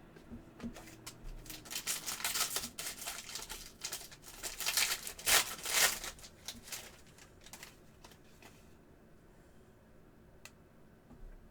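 Trading cards and a foil pack wrapper being handled: a run of rustling and sliding for about six seconds, then quieter, with one faint click near the end.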